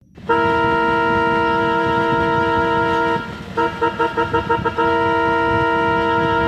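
Indian goods train horn: one long multi-tone blast of about three seconds, then a rapid string of about seven short toots, then another long blast.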